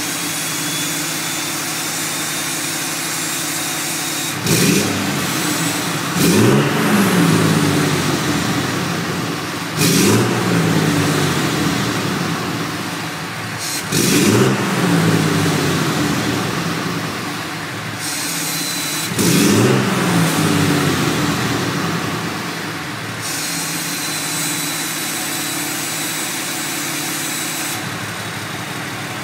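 6.7L Cummins turbo-diesel inline-six with a 4-inch AFE exhaust idling and being revved about five times, the first two close together; each time the pitch climbs sharply and then falls back to idle. It idles steadily for the last several seconds.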